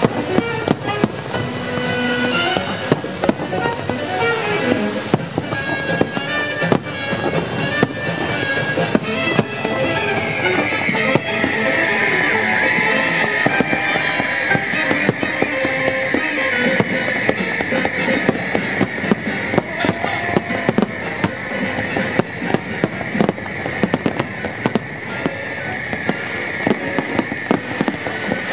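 Pyromusical fireworks display: rapid bangs and crackling of aerial shells and ground effects over a playing music soundtrack. A steady hiss joins in about ten seconds in.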